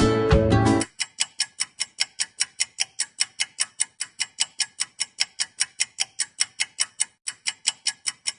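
A strummed-guitar music track cuts off about a second in, then a clock-style ticking takes over: fast, even ticks at about four or five a second, like a countdown timer sound effect.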